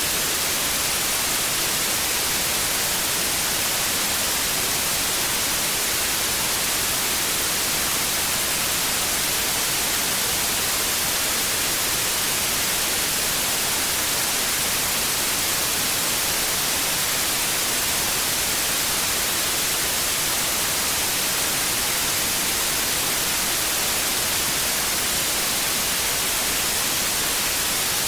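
Analogue TV static: a steady, even hiss of white noise, strongest in the high frequencies.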